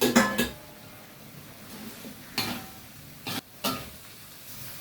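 A cooking utensil clattering and scraping against a pan while vegetables are stir-fried: a burst of knocks at the start, then single knocks about two and a half seconds in and twice more around three and a half seconds.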